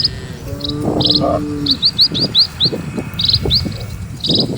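A small bird chirping in quick, repeated short notes, a fast run of them about two seconds in, over the irregular clopping of cattle hooves on the road.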